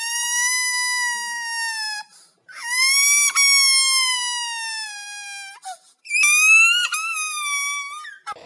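High-pitched cartoon crying sound effect: three long wailing cries, each swelling and then sagging in pitch, with brief breaks between them.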